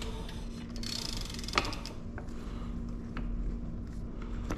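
Bicycle pedals being fitted to the crank arms by hand: small metallic clicks, with a quick run of rapid ticking about a second in and a sharper clack shortly after.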